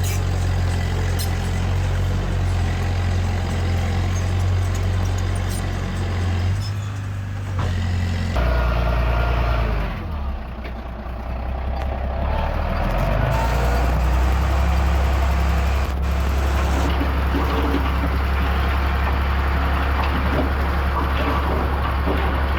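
Heavy diesel earth-moving machinery running steadily under load, a deep engine drone. Its sound shifts abruptly about eight seconds in, dips briefly, then settles into a steady drone again.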